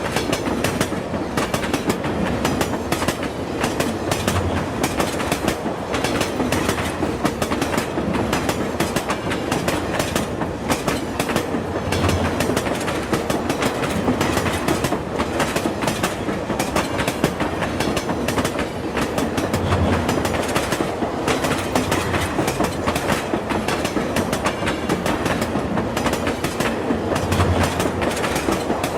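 Train running steadily along the track, its wheels clattering continuously over the rails, with a deeper low swell returning every seven or eight seconds.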